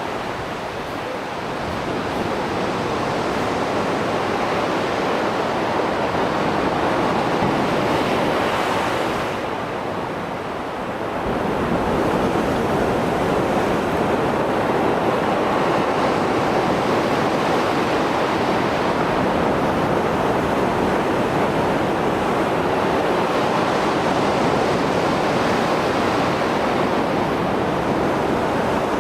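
Mediterranean Sea surf after a storm: waves breaking and washing in a continuous rush. It eases briefly about ten seconds in, then builds back up as the next wave comes in.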